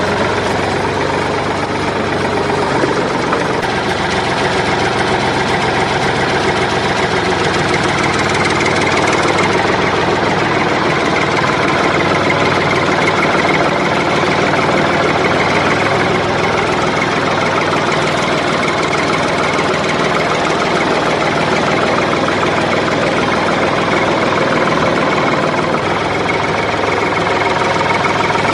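Mini DIY toy tractor running, a continuous, even engine-like sound with no pauses.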